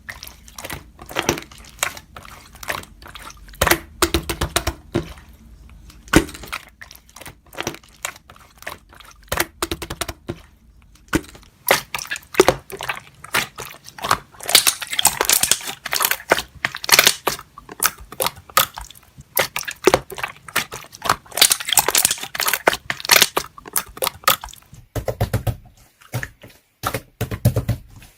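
Slime being squished and pressed by hand, giving a dense, irregular run of sticky pops, clicks and crackles. The popping comes thickest in two busy stretches, about halfway through and again around three-quarters of the way in.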